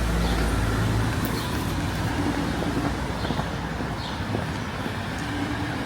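Street traffic: a passing motor vehicle's low engine rumble that fades about a second in, over steady road noise.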